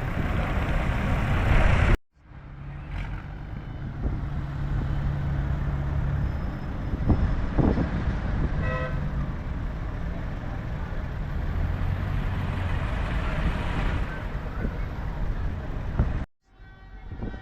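Tractor engines running past, with a short horn toot about nine seconds in.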